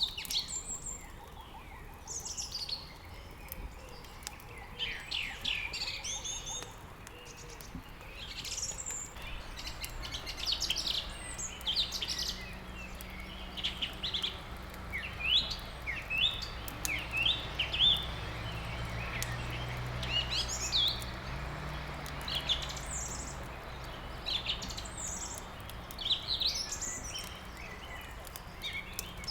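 Several small birds chirping and twittering in quick, overlapping phrases, with the light crackle of burning wood in a fireplace.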